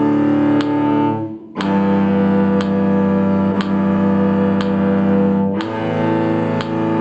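Cello playing long bowed notes, each held for about four seconds, with the pitch changing about a second and a half in and again near the end. A short click sounds once a second, keeping the beat like a metronome.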